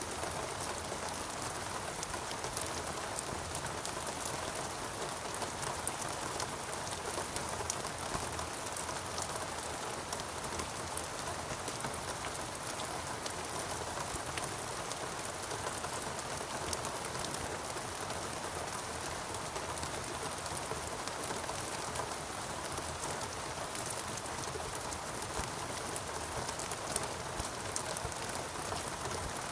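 Steady rainfall in a rainforest, a dense hiss of rain with many small drops pattering on leaves and surfaces.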